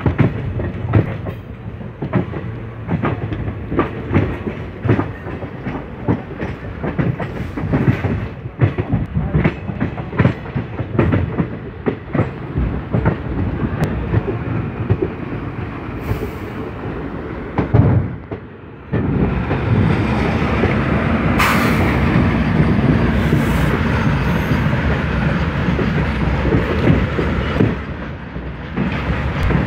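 Train wheels running over rail joints and points in a yard, heard from aboard the moving train, with quick irregular clickety-clack. About two-thirds of the way in, the sound jumps to a louder steady rumble as a freight train of open wagons runs close alongside on the next track.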